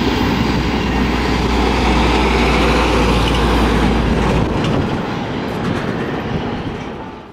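Passenger train running away down the line: a steady rumble of wheels on rail with a low drone that drops away about halfway through. A few faint clicks follow, and the sound fades out at the end.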